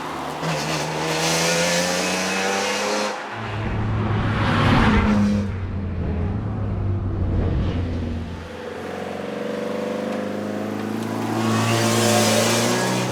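BMW E46 M3's S54 straight-six engine pulling hard, its pitch rising for about three seconds, then a rougher stretch as the driver lifts and the revs drop, before it climbs in pitch again under acceleration near the end.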